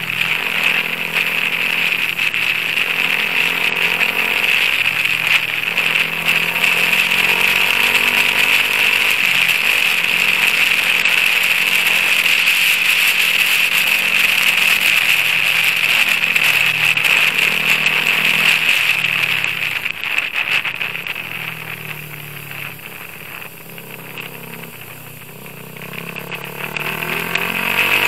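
Sport motorcycle's engine running under way, its note repeatedly climbing and dropping back as it is ridden through the gears, with a steady high hiss over it. About two-thirds of the way through it eases off and goes quieter for a few seconds as the bike slows, then builds again near the end.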